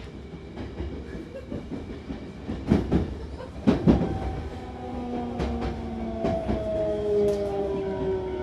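Hankyu electric train running and slowing on the approach to a station: a low rumble with loud wheel knocks over rail joints or points about three and four seconds in. After that a whine of several tones slowly falls in pitch as the train brakes.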